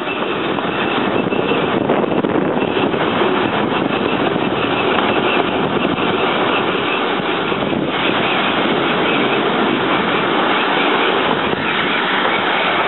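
Steam-hauled heritage passenger train running along the track, heard from an open carriage window: a steady loud rushing noise with a faint high squeal over it.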